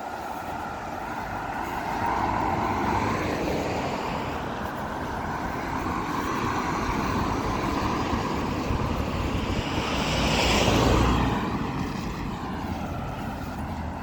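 Road traffic going by, with one vehicle passing close about ten seconds in, its sound swelling and then fading.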